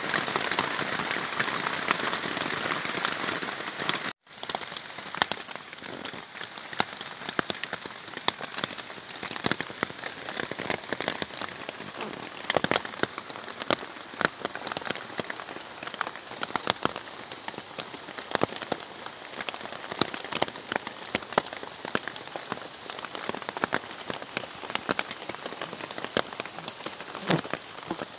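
Rain falling on a plastic tarp overhead: a steady hiss of rain with many sharp taps of single drops. The sound cuts out for a split second about four seconds in, and after that the separate drop taps stand out more.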